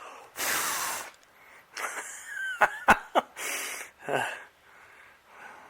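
A man's breathy puffs and exhales, several in a row, with three sharp clicks in the middle, as he handles a torch-heated engine thermostat whose valve has just opened.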